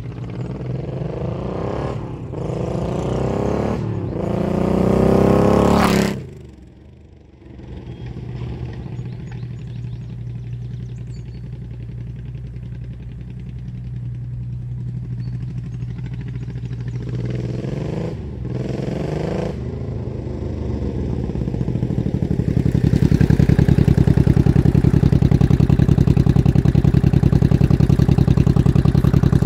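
Honda VT700 bobber's V-twin engine pulling up through the revs in three quick rising sweeps with short breaks between, then dropping off about six seconds in. It runs steadily for a while, rises briefly again past the middle, and for the last several seconds runs louder and steady.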